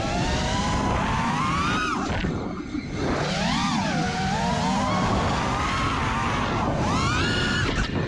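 5-inch FPV freestyle quadcopter's brushless motors (RcInPower Smoox 2306.5) and props whining. The pitch swoops up and down again and again as the throttle is punched and chopped, with a short drop about two and a half seconds in and another near the end.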